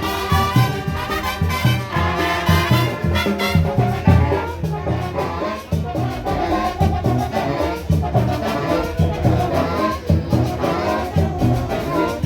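Latin brass band playing live, trumpets and trombones over a steady drum beat.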